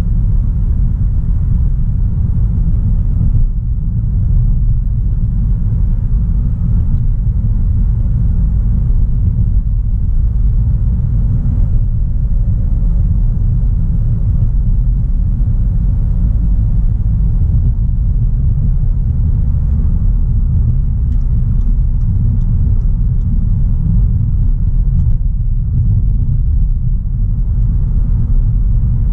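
A 2016 Audi A3 Sportback 1.4 TFSI, a turbocharged four-cylinder petrol, driving along at a steady pace. A low, even rumble of engine and road noise.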